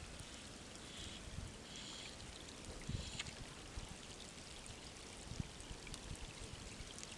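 Steady wash of water, with scattered small drip ticks and a few short low thumps.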